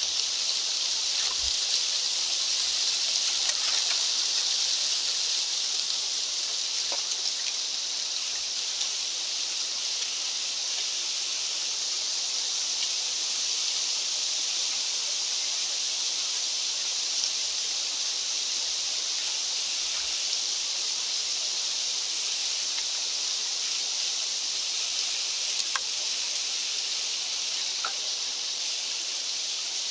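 Steady, even high-pitched hiss of outdoor ambience, with a few faint ticks scattered through it.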